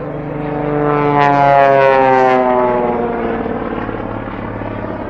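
Propeller-driven aerobatic airplane flying past, its engine note swelling as it comes close and dropping in pitch as it passes, then fading.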